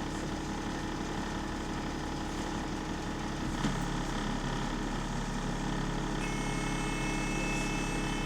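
Bus diesel engine running, heard from inside the cabin of a bus with a leaking exhaust. Its low note shifts about three and a half seconds in, and a steady high whine joins about six seconds in.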